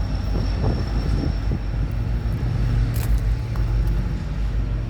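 BNSF SD70ACe diesel locomotive, the rear distributed power unit of a loaded ethanol tank train, running past with a steady low engine drone that strengthens about two seconds in.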